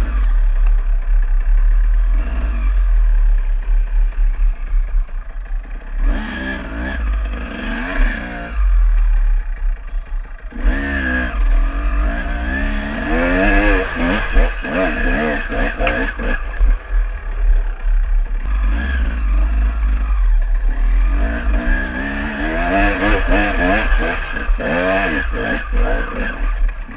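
Enduro motorcycle engine revving up and down again and again as the bike is ridden off-road. Heavy wind buffeting rumbles on the camera microphone.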